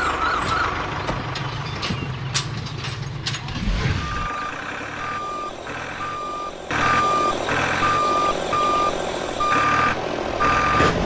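A vehicle's engine running with a low steady rumble and a few clicks, then a reversing alarm sounding about eight short, evenly pitched beeps from about four seconds in.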